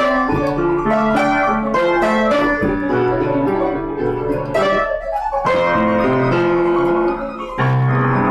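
Piano music: struck notes and chords ringing on, with a brief lull about five seconds in.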